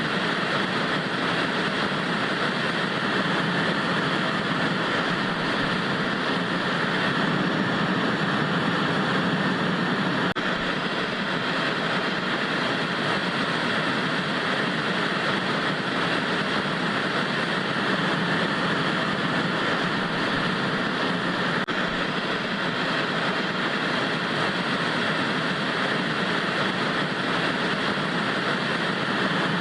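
Steady hiss of TV static white noise, even and unchanging.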